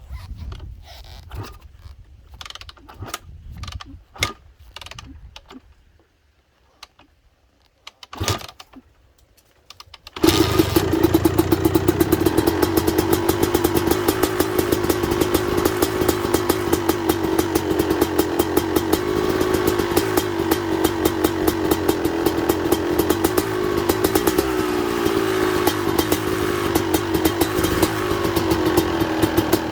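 Scattered clicks and a single thump, then about ten seconds in the 2005 Suzuki RM250's two-stroke single-cylinder engine fires on a cold start and settles into a steady, fast-firing idle that wavers slightly in pitch.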